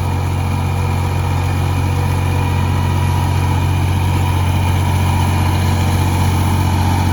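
Tractor's diesel engine running steadily with a low, even drone.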